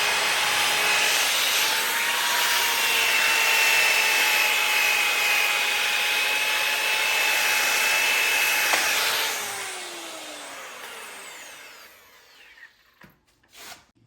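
Bauer variable-speed grinder with a sanding pad running and sanding a cast iron skillet: a loud, steady hiss of abrasive on hard metal over the motor's whine. About nine seconds in it is switched off and the whine falls in pitch as it spins down, followed by a few light knocks.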